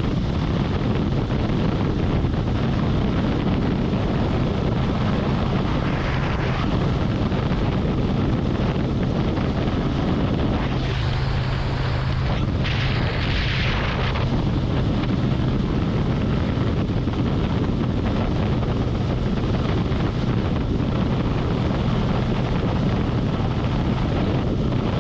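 Harley-Davidson Road Glide's V-twin engine running steadily at highway cruising speed, under heavy wind rushing over the microphone. The rushing grows louder for about three seconds around the middle.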